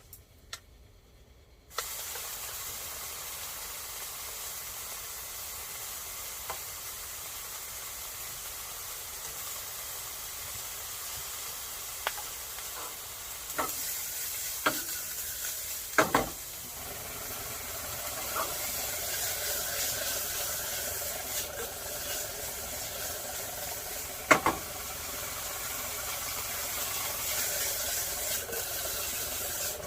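Food sizzling in a hot frying pan, the sizzle starting suddenly about two seconds in, with a few sharp knocks scattered through it.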